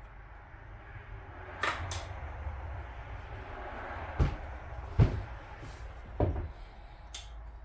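A series of about six separate knocks and clicks, the loudest about five seconds in, from parts and tools being handled and set down while an outboard motor's lower unit is reassembled, over a steady low hum.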